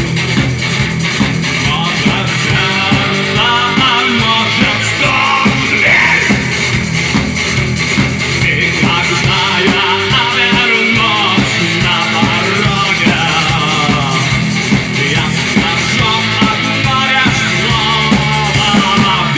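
Rock band playing a cover of a Russian rock song, with guitars and a drum kit keeping a steady beat.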